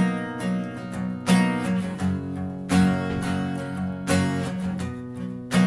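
Guitar strumming chords in a steady rhythm, with a strong accented strum about every second and a half and lighter strums between.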